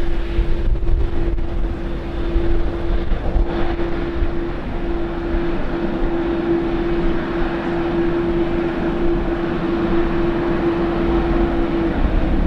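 Jet airliner engines running, a loud, steady noise with one held droning note.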